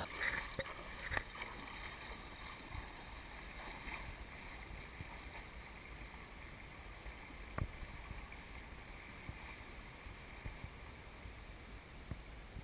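Faint steady river ambience of light wind and moving water, with a few soft clicks.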